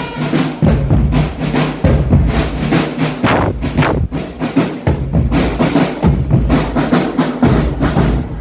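Marching drum band playing: quick snare-drum strokes over deep bass-drum hits that come in recurring groups.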